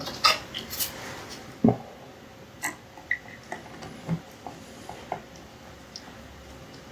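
Scattered light clicks and taps of small metal carburettor parts and a hand tool being handled while fitting a retaining screw, with one heavier knock about two seconds in.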